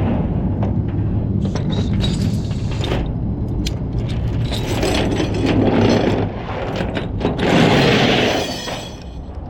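Tow truck engine running steadily under metal clanks and rattles of tow hooks and rigging, with two longer scraping noises about five seconds and about seven and a half seconds in.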